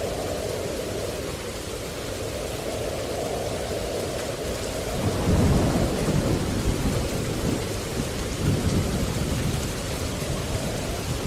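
Steady rain hiss with a low thunder rumble that rolls in about halfway through, swelling in a few uneven surges before easing off.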